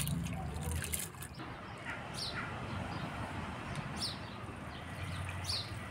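A bird chirping outdoors: three short, high, falling chirps spaced about two seconds apart, over a steady low hum.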